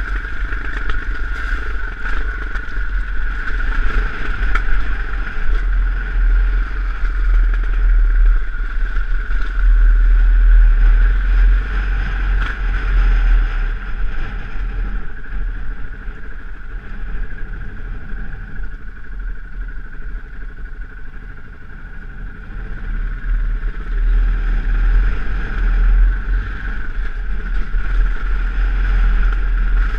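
KTM dirt bike engine running as the bike rides a gravel track, with heavy low wind rumble on the camera. The engine eases off about two-thirds of the way through, then picks up again.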